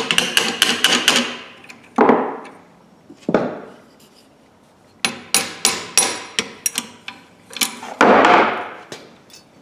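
Hammer blows on a rusted-solid locking pliers to knock it apart and free its spring: a quick run of light strikes, two heavier single blows, then more strikes about two a second, with a longer, louder noise near the end.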